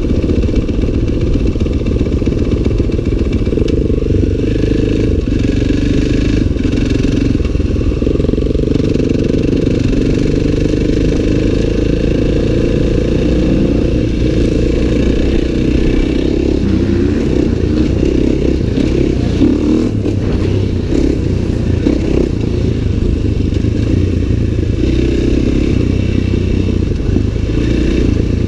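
Dirt bike engine running continuously while being ridden, its note wavering up and down with the throttle.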